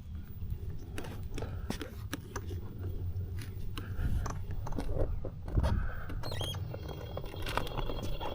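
Wind rumbling on the microphone over scattered clicks and rattles from an electric unicycle rolling along a trail, with a faint high whine coming in about six seconds in.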